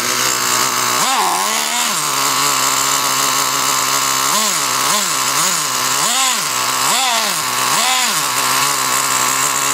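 Small two-stroke nitro engine of a Traxxas T-Maxx RC truck running at idle, blipped up in revs about seven times, once near the start and then in quick succession through the middle.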